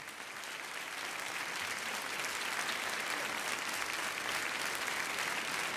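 Audience applauding, building over the first second or two and then holding steady.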